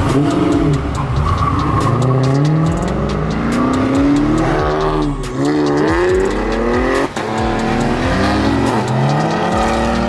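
Performance car engines revving and accelerating hard, their pitch climbing and dropping again several times as they rev up and shift, with a brief sharp crack about seven seconds in.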